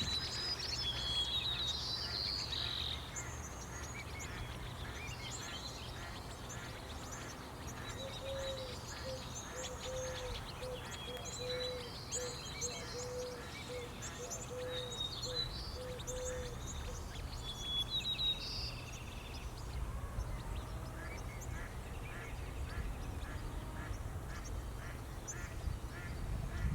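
Outdoor bird sounds: small songbirds chirping now and then, and in the middle a run of about a dozen short, evenly spaced low calls from a bigger bird. A steady low rumble runs underneath.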